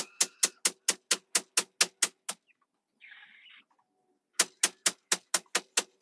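Rapid, evenly spaced knocks, about four to five a second, in two runs with a pause between them, and a short scraping hiss in the pause.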